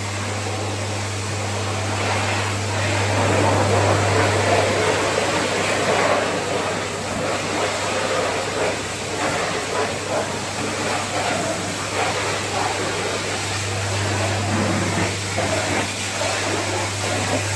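Pressure washer running: a steady motor hum under the hiss of a water jet spraying.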